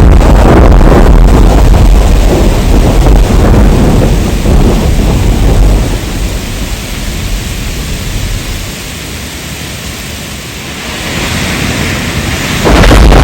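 Heavy rain with a deep rumble of thunder, loud for about the first half, then dying down to a quieter hiss of rain. Near the end the full low rumble returns abruptly.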